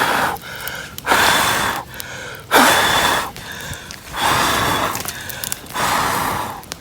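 A person blowing hard on a smouldering campfire of brushwood to get it burning: five long puffs of breath, about one every second and a half.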